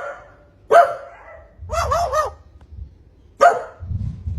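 Short bark-like animal calls: one, then three in quick succession, then one more.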